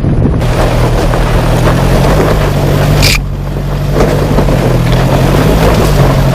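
4x4's engine running steadily under load with a low hum, mixed with rushing wind and vehicle noise, and a brief high-pitched sound about three seconds in.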